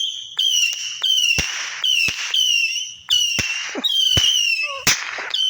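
Lit firework going off in a rapid series of high whistles that waver in pitch, each whistle cut off by a sharp bang, with around six or seven bangs.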